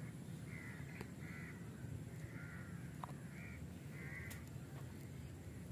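A bird giving a series of short, faint calls, about one a second, over a low rumble.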